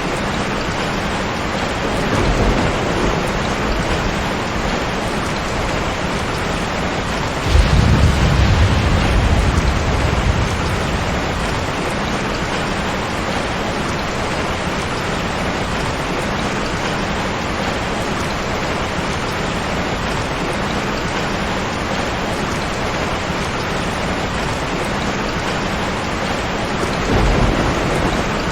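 Steady rain with thunder. A low rumble comes about two seconds in. A sudden, louder crack about seven seconds in rolls on for a few seconds, and another rumble comes near the end.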